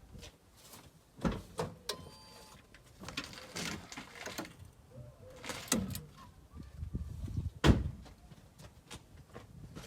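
Intermittent clanks, clicks and knocks of tools on metal parts during work on a car's front suspension, with a brief thin ringing about two seconds in and one sharp, loudest knock about three-quarters of the way through.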